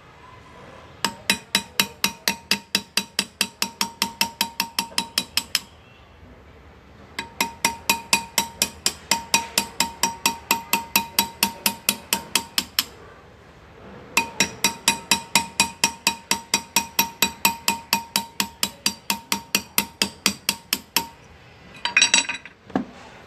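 Hand engraving: a small hammer taps an engraving chisel into metal in three steady runs of about four to five blows a second, each blow ringing briefly. A short clatter follows near the end.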